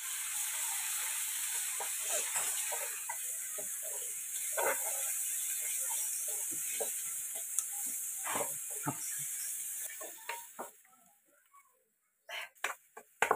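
Masala paste sizzling in hot oil in a steel kadhai, with a steel ladle scraping and knocking against the pan as it is stirred; the paste is being fried until the oil separates. The sizzle dies away about ten seconds in, leaving a few clicks.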